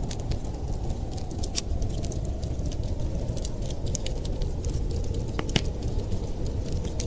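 Wood fire crackling, with scattered small pops and one sharper snap about five and a half seconds in, over a steady low rush of blizzard wind.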